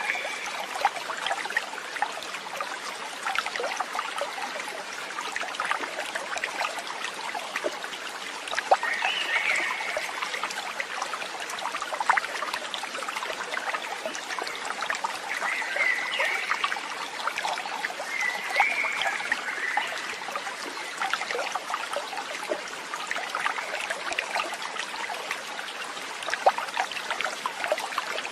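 Water trickling and babbling steadily, as in a small stream, with a few brief high calls standing out now and then.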